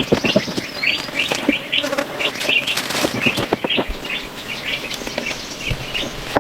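Short chirping calls repeating a few times a second, typical of rainforest birds or insects, over irregular clicks and knocks.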